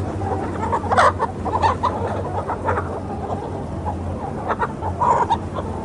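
Free-range village chickens clucking, many short calls from several birds overlapping.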